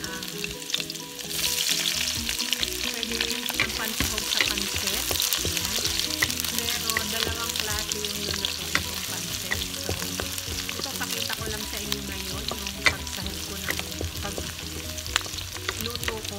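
Chopped garlic and onion sizzling in hot oil in a wok while a wooden spatula stirs them, scraping and tapping against the pan. The sizzle gets much louder a little over a second in, as the onion goes into the oil.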